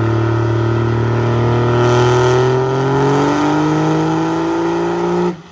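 Diesel truck engine running hard, its pitch climbing slowly and steadily as it winds up; the sound cuts off suddenly about five seconds in.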